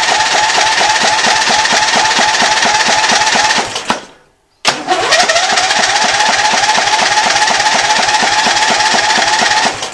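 Electric starter cranking a 16 hp overhead-valve Briggs & Stratton lawn tractor engine in two attempts, an even pulsing of about seven beats a second, stopping near 4 s and starting again with a click a moment later. The engine turns over but never fires: it has spark, and is starved of fuel.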